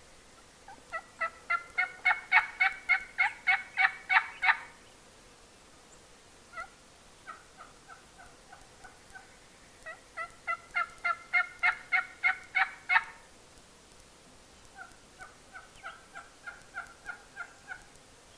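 Turkey yelping in four runs of quick, evenly spaced yelps, about four a second. The first and third runs are loud and each holds a dozen or more yelps; the second and fourth runs are softer.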